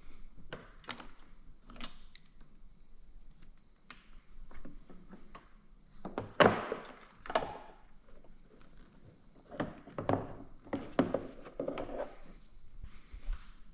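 Irregular clicks, knocks and clatter of tools and parts being handled, with louder thuds about six to seven seconds in and again around ten to twelve seconds in. A faint steady high whine runs underneath and stops near the end.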